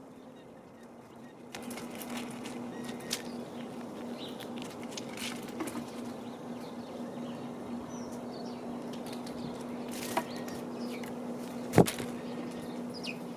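Birds at a feeder: wing flaps and a few sharp knocks or taps, the loudest near the end, with faint high chirps, over a steady low hum.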